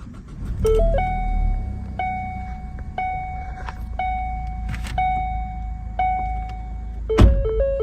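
2013 Ford Focus dashboard warning chimes over the low hum of the car running. A short two-note chime gives way to a steady tone repeating about once a second. Near the end a thump is followed by a fast warbling two-note alarm chime.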